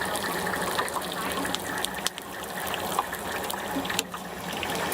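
Stinky tofu deep-frying in hot oil: a steady sizzle dotted with dense, sharp crackles and pops.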